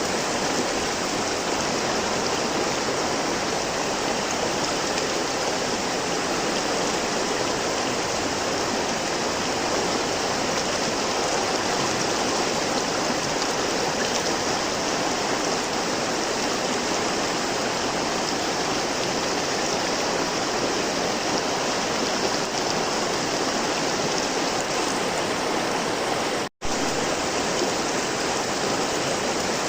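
River water flowing in a steady, even rush. The sound cuts out for a split second near the end and then resumes unchanged.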